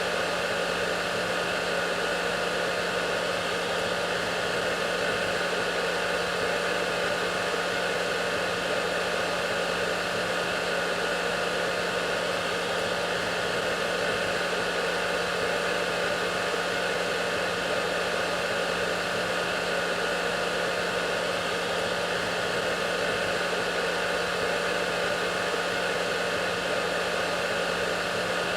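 Hair dryer running steadily: an even rush of air with a constant motor hum underneath and a few faint steady whining tones.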